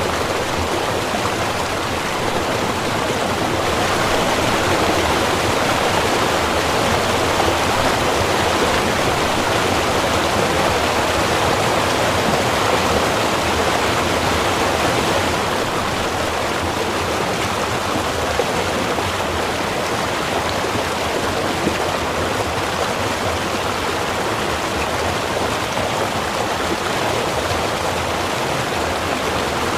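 Small river running, a steady rush of flowing water with a constant gurgle.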